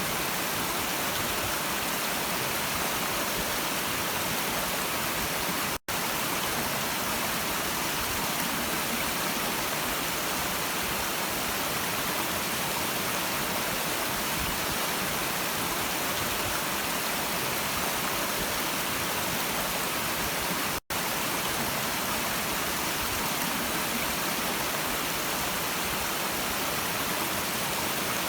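A stream's water running steadily, an even rushing noise. It cuts out to silence for a split second twice, about six seconds in and again about twenty-one seconds in.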